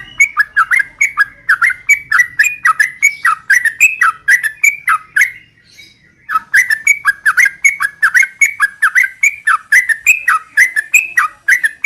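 Yellow-vented bulbul (trucukan) giving a fast chattering song of quick falling notes, about four or five a second, in a long run that breaks off briefly after about five seconds and then starts again.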